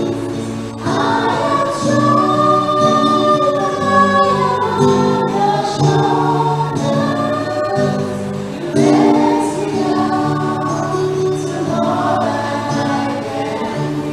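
Choir singing a Christian song over steady held low instrumental notes.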